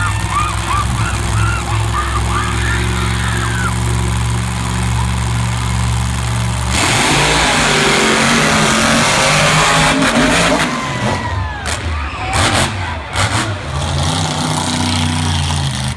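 Monster truck engines running loudly: a steady low engine note, then a sudden loud surge about seven seconds in that breaks up into uneven bursts of noise.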